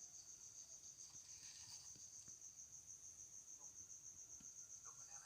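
Faint insect chirping at night, most likely a cricket: a steady high-pitched trill pulsing evenly, about eight pulses a second.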